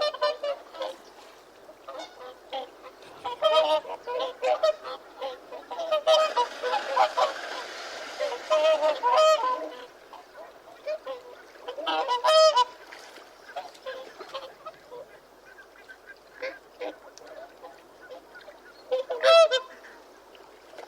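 Goose honking in repeated bouts of loud, nasal calls. The calls overlap for a few seconds in the middle, with separate strong bursts later on.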